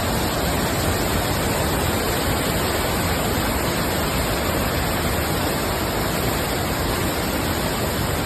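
Kuang Si waterfall: a loud, steady rush of falling water.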